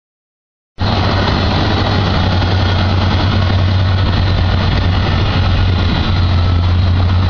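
Heavy diesel construction machinery running steadily with a strong low hum, starting abruptly about a second in.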